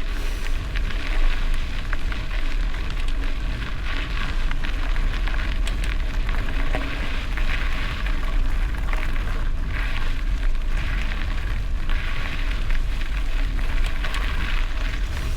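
Gravel bike riding over a gravel road: a steady crackle of tyres crunching stones and small rattles, with low wind rumble on the microphone.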